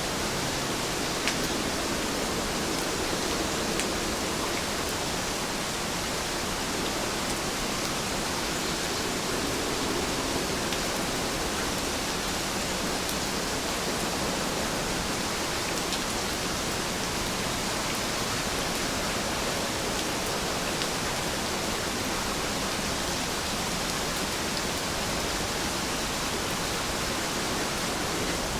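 Heavy rain falling steadily, an even hiss with scattered small drop ticks.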